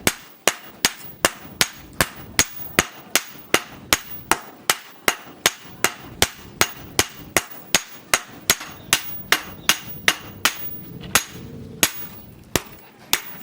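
Hand hammer striking steel on an anvil in a steady rhythm, about three blows a second, each with a short metallic ring; the blows pause briefly a couple of times near the end.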